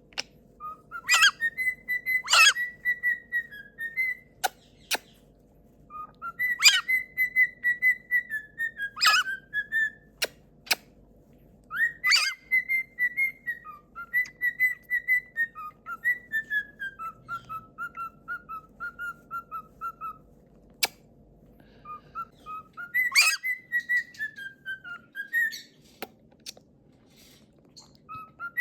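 Pet parrot whistling a tune: phrases of short, even whistled notes, some stepping down in pitch, broken by sharp loud squawks or clicks, with pauses between phrases.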